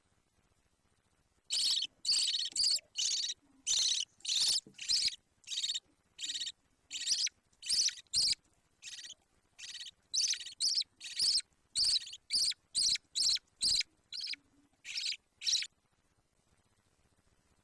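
Budgerigar chick giving a string of short, harsh, raspy calls, about two a second. This is the typical begging call of a nestling budgie.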